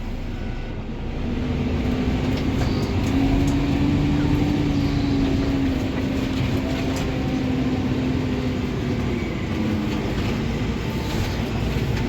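Farm tractor engine running steadily while pulling a fertilizer spreader wagon. Its note rises slightly and then drops back.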